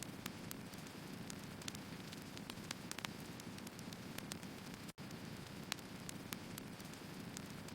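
Wood fire burning: irregular sharp crackles and pops from the burning logs over a steady low rush. The sound drops out for a split second about five seconds in.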